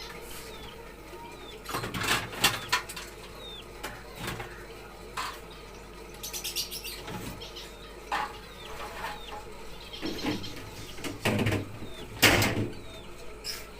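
Plastic containers and other items knocking and clattering, irregular handling noise from emptying a refrigerator, with small birds chirping in the background.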